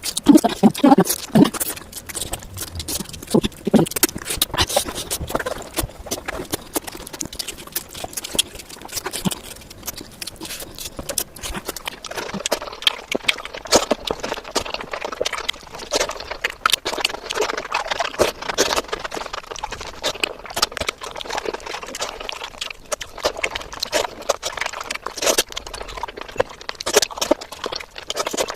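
Close-miked eating sounds: chewing and lip-smacking through mouthfuls of fish curry and rice, a dense run of short wet clicks and smacks.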